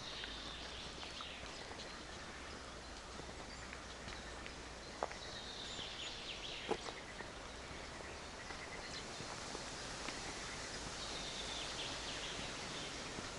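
Forest ambience: a songbird sings short, high, falling phrases about every five seconds over a steady background hiss. Two sharp snaps come about five and seven seconds in.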